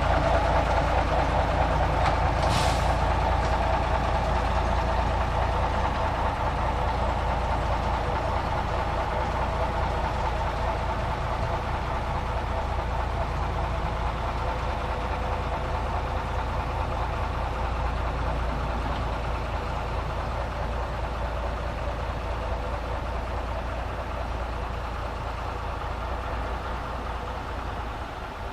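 A diesel rail vehicle's engine running steadily at low revs, slowly growing fainter. A brief hiss comes about two and a half seconds in.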